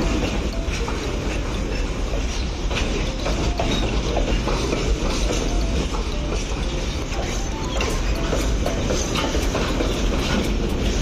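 Pakistan Railways train running along the track: a steady, continuous running noise with wheels clicking over the rail joints.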